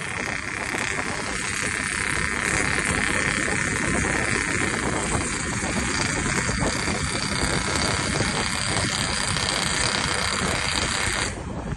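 Motorcycle with a bored-out stock exhaust running at high revs, a dense raspy buzz. It grows louder over the first few seconds, holds steady, and cuts off sharply near the end.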